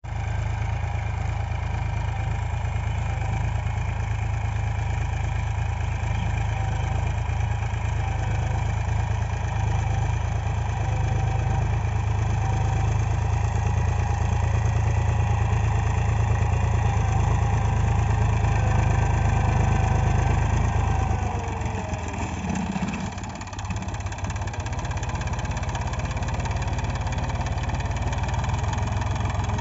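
HMT 3522 tractor's diesel engine running steadily. About 21 seconds in its pitch falls and the sound dips briefly, then it settles into a steady, somewhat quieter run.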